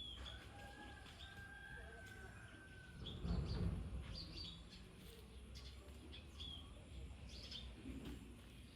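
Faint birds chirping, short high calls scattered throughout, over outdoor background noise, with a brief low rumble about three and a half seconds in.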